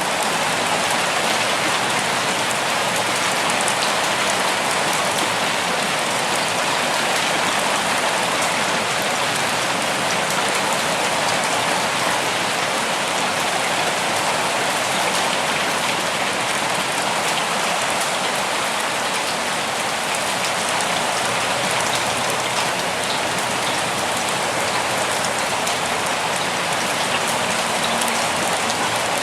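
Steady rain falling on leaves and ground, a dense even patter of drops.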